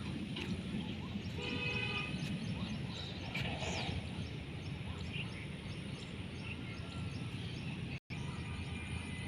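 Steady low rumbling outdoor noise, with a brief pitched call about a second and a half in.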